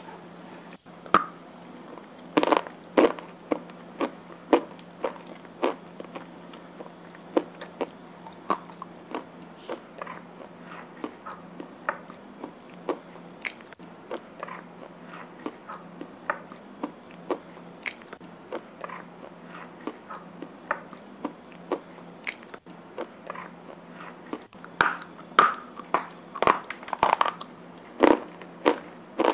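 A person biting and chewing slate pencils with red clay paste: a run of sharp, dry crunches throughout, with bursts of louder crunching about two seconds in and again near the end.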